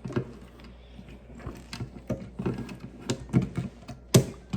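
Small plastic Lego pieces being handled and pressed together: a run of light clicks and rattles at irregular spacing, with one sharper click about four seconds in.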